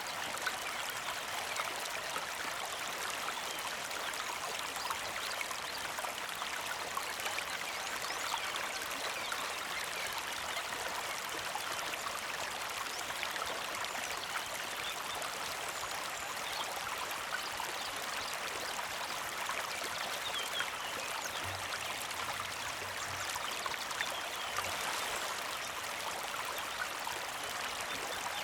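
Small mountain creek flowing with a steady, gentle trickle.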